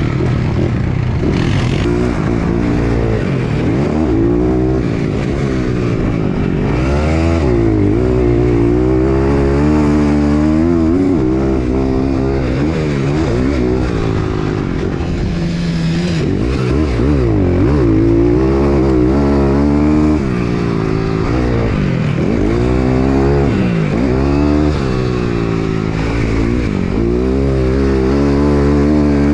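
Dirt bike engines revving hard, the pitch climbing and dropping again and again as the riders accelerate, shift and back off around a dirt track.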